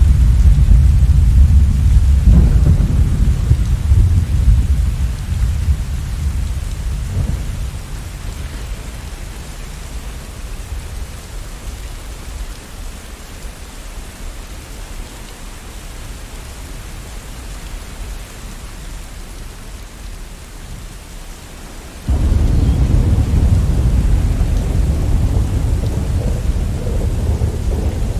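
Steady rain with rolling thunder. A deep thunder rumble dies away over the first several seconds, leaving the rain hiss, and then a new loud rumble breaks in suddenly near the end.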